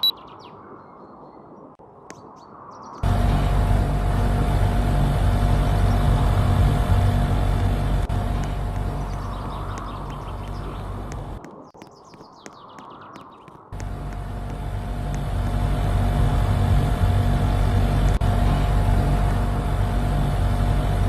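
Air conditioner running: a loud steady whoosh of fan noise with a hum. It starts suddenly about three seconds in, cuts out for about two seconds past the middle, then comes back. Birds chirp faintly in the quiet stretches.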